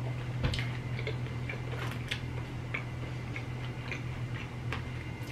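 Close-miked chewing of breaded chicken: soft crunches and wet mouth clicks, about two or three a second, over a steady low hum.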